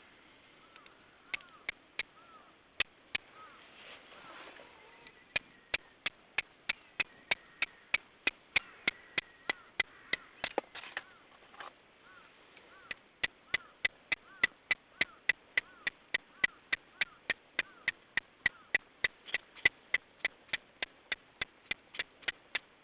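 Hammer blows on steel, forging a fire steel (hiuchigane): sharp, ringing strikes about two to three a second, with a short pause midway.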